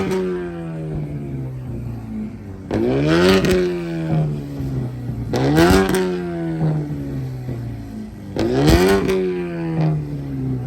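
A car engine revved again and again, about every three seconds. Each rev climbs quickly, then falls back slowly toward idle, with a short crackle near the top.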